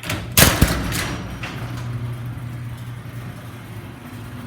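LiftMaster garage door opener starting up: a couple of loud clunks about half a second in, then the motor's steady hum as it drives the door, its trolley re-engaged with the drive.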